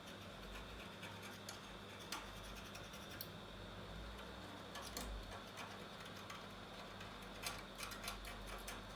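A blade scraping leftover glass and adhesive off an iPhone 8 Plus rear housing: faint scratching with scattered sharp ticks, thickest near the end, over a steady electrical hum.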